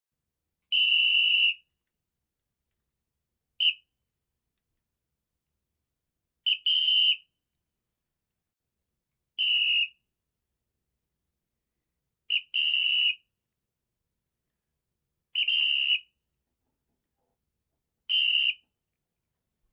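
Short, shrill whistle-like tones at one steady high pitch, seven in all, about one every three seconds. Each lasts under a second, a couple with a quick double start, and there is silence between them.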